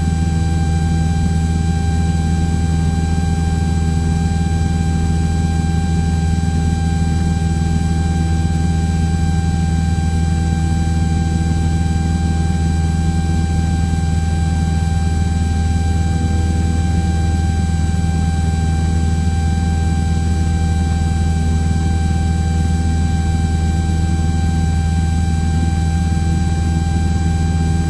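Cessna 172's piston engine and propeller droning steadily in the climb, heard from inside the cabin, with a steady high whine held over the drone.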